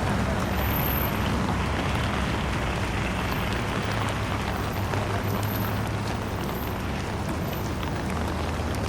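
Rain on a city street: a steady hiss of falling rain and wet road over the low, constant hum of traffic engines, with a few faint scattered ticks of drops.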